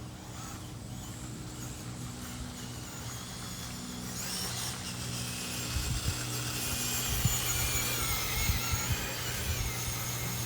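Electric drive motor and gears of a RocHobby 1941 Willys Jeep RC crawler whining as it drives over grass. The sound grows louder from about four seconds in.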